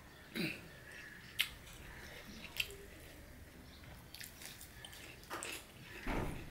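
Close-up eating sounds from a person eating rice and curry by hand: wet chewing and mouth noises, with a few sharp clicks. A longer, louder wet mouthful comes near the end.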